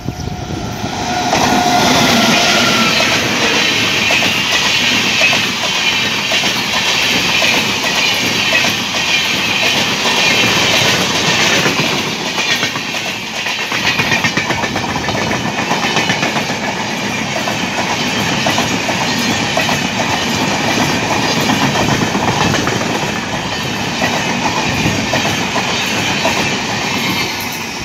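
Electric-hauled Indian Railways train of LHB coaches running past at speed close to the track. The loud, steady rush of wheels on rail builds in the first couple of seconds and carries a rapid clickety-clack from the bogies.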